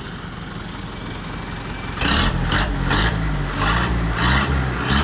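Truck engine idling, then blipped about five times from roughly two seconds in, each rev rising and falling through the exhaust. The owner calls this exhaust bad.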